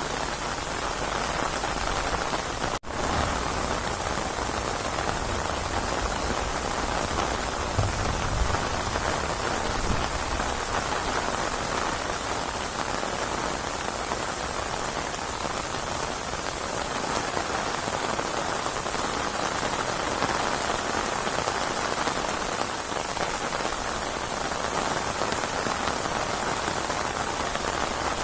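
Steady heavy rain falling on surfaces, a dense even hiss of drops. There is a momentary cut in the sound about three seconds in.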